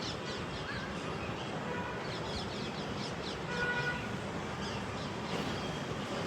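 Birds chirping in quick runs of short, falling high calls over a steady background hiss.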